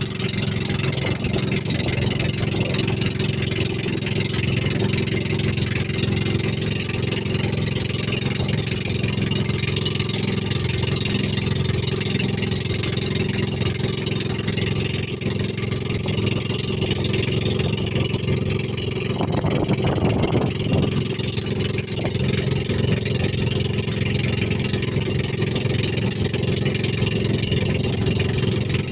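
Small boat's motor running steadily at a constant speed, with a brief change in its sound about two-thirds of the way through.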